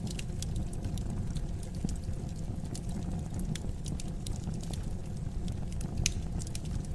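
Wood fire crackling, with irregular small pops and snaps over a low steady rumble; one louder pop about six seconds in.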